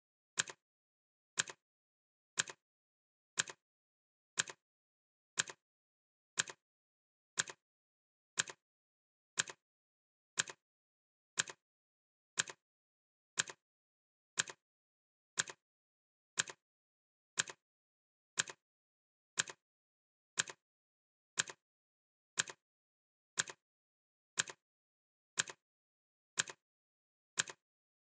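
Clock ticking, one sharp tick each second at a steady pace, with silence between the ticks.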